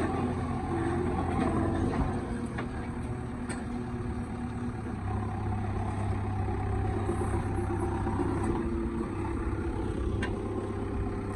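Heavy diesel engine running steadily with a low drone, which shifts and grows stronger about five seconds in, and a few faint clicks.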